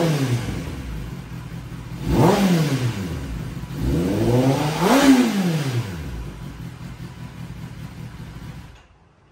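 Kawasaki ZX-10R superbike's inline-four engine revved through an aftermarket slip-on exhaust: three quick throttle blips, near the start, about two seconds in and about five seconds in, each rising and falling back to idle. The engine then cuts off suddenly just before the end.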